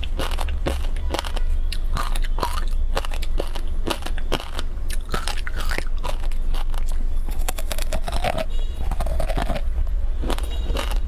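Frozen passion fruit ice being bitten and chewed close to the microphone: a dense run of sharp crunches and cracks, with a low rumble underneath.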